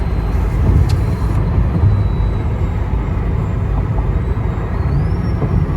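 Road and engine noise inside a moving car's cabin: a steady low rumble, with a low hum rising briefly about five seconds in.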